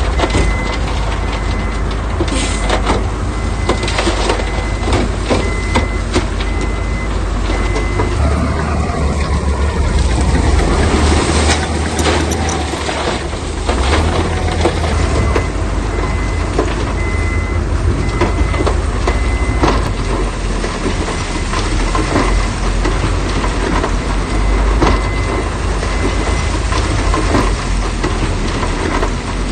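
Heavy construction machinery at work: a diesel engine rumbling steadily, with scattered knocks and clanks. A faint high beep repeats evenly for a few seconds at the start and again midway.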